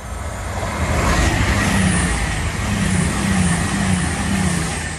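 Passenger train passing close by at speed: a loud rush of wheels on rail and running noise, building up over the first second as the train arrives and staying loud as the coaches go by.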